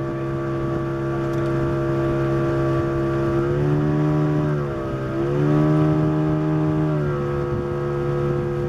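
Boat engine running steadily under way, its pitch dropping briefly about halfway through and then picking back up.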